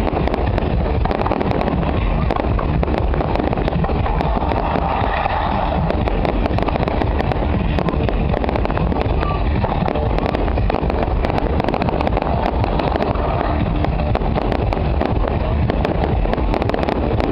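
Fireworks display: many quick cracks and pops from bursting shells and crackling stars, over a steady deep rumble.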